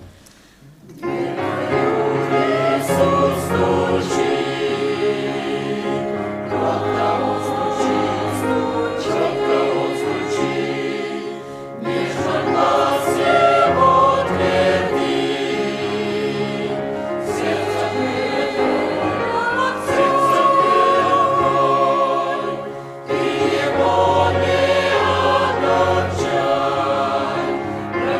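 Church choir singing a hymn, coming in about a second in after a quiet start, with short breaks between phrases.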